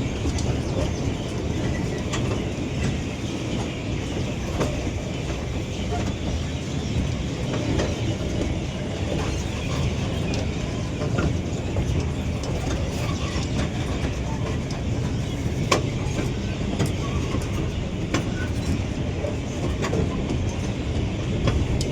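Miniature park ride train running on its track: a steady rumble with scattered sharp clicks from the wheels and carriages.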